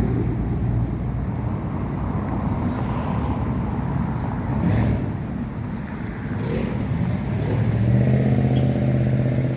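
Street traffic: motor vehicle engines running and passing close by, with a steadier engine tone coming up near the end.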